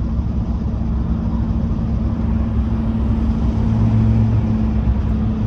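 Steady engine and road noise of a car heard from inside its cabin while driving, with a low drone that swells briefly about four seconds in.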